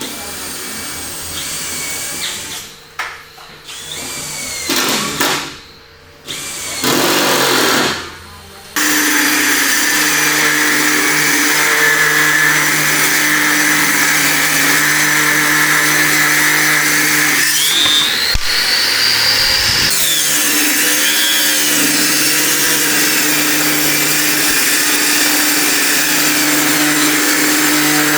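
Electric power tool running, starting and stopping in short bursts at first and then running loud and steady for most of the time, its pitch shifting briefly near the middle.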